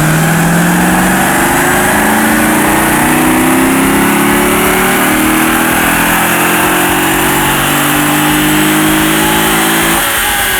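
Chevrolet Corvette C6's LS2 V8 breathing through Kooks longtube headers and a Corsa X-pipe and sport cat-back exhaust, held at high revs. The pitch rises at the start, climbs slowly for about ten seconds and drops off near the end.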